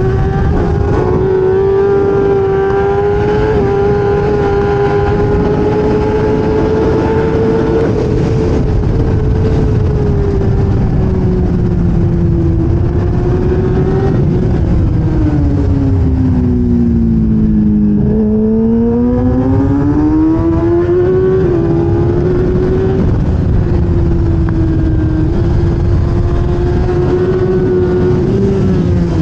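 1000cc race motorcycle engine running hard at high revs. About halfway through, its pitch falls steadily as the bike slows, then climbs again as it accelerates, and it stays high to the end.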